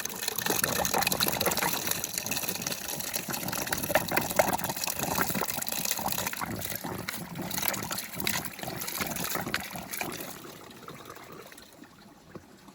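Water pouring and splashing, which dies away about ten seconds in.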